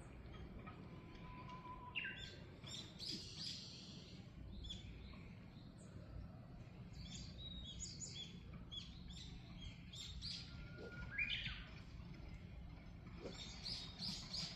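Small songbirds singing: several quick, high chirping phrases, each a few seconds apart, some led in by a short held whistle, over a steady low background hum.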